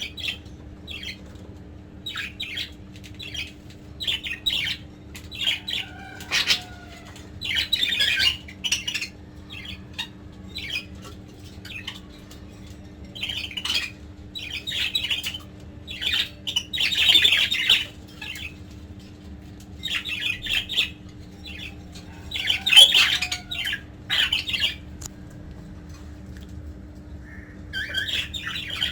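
Budgerigars squawking and chattering in short, sharp calls that come in clusters, with a lull of a few seconds near the end. A steady low hum runs underneath.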